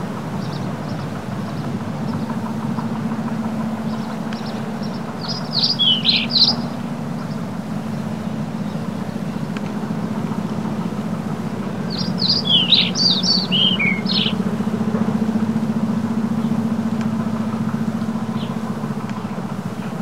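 A small songbird sings two short bursts of quick chirps that drop in pitch, about five seconds in and again about twelve seconds in, over a steady low hum.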